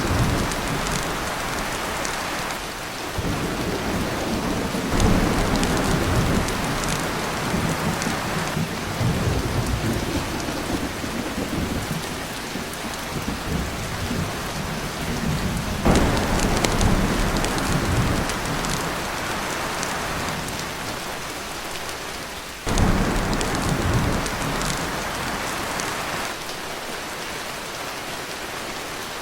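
Heavy rain pouring on a tin roof, with several rolls of thunder over it. The loudest rumbles break in suddenly about halfway through and again about three-quarters of the way in.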